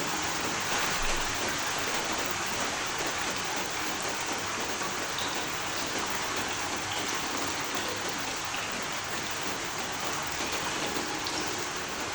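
Steady rain falling, an even hiss of rain with a few faint individual drop ticks.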